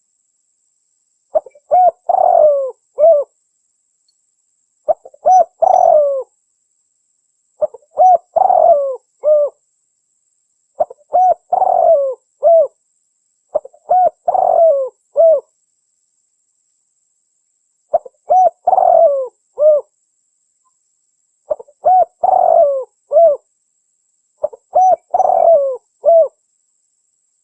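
Spotted dove (tekukur) cooing: a repeated phrase of several hooked notes, given about every three seconds with silent gaps between. It is a recorded lure call of the kind used to draw in wild doves.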